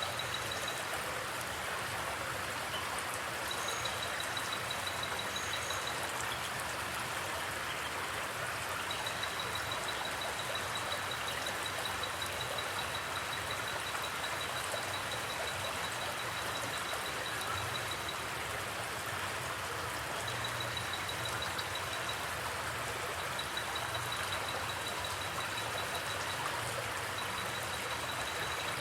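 Steady rushing of a flowing forest creek. A faint, high, fast-pulsed trill comes and goes over the water in runs of several seconds.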